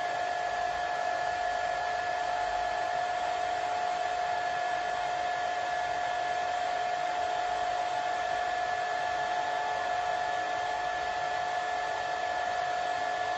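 Hair dryer running steadily: an even rush of blown air with a constant whine through it.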